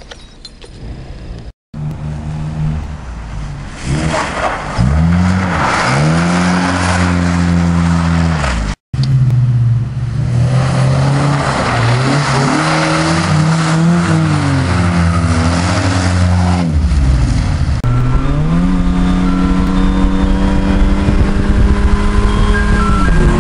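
Honda car engines revving hard and accelerating, the pitch climbing and dropping again and again through gear changes, in several short clips cut together. Through the middle stretch a loud hiss of noise runs under the engine; near the end one engine climbs steadily in pitch as it pulls through a gear.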